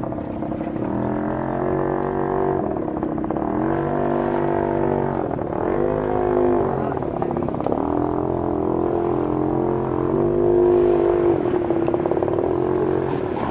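Small boat engine running steadily, its pitch dipping down and coming back up about four times.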